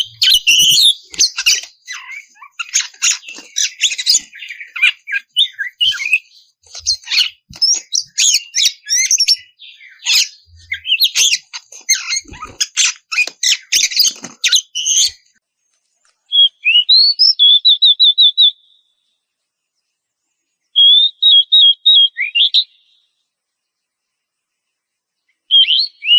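Oriental magpie-robin singing: a fast, varied stream of high-pitched whistles, chirps and harsh notes for about fifteen seconds, then stopping. After a pause come short, rapidly repeated trilled phrases a few seconds apart, the last starting near the end.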